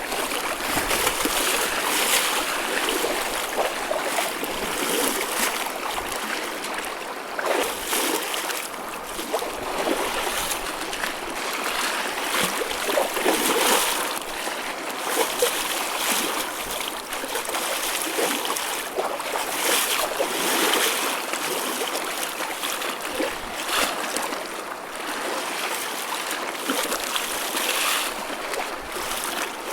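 Choppy ocean waves washing and splashing: a steady rush of surf that swells and eases every second or two.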